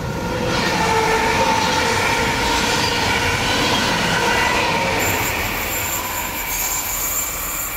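Red double-deck regional express train passing close on a curve, its wheels running over the rails with a steady squeal. The sound swells about half a second in and eases off after about five seconds as the train moves away.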